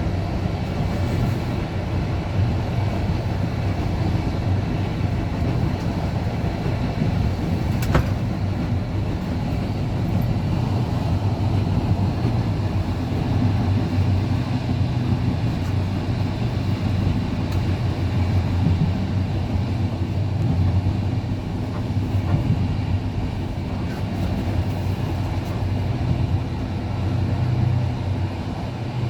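Passenger train running, a steady low rumble, with one sharp knock about eight seconds in.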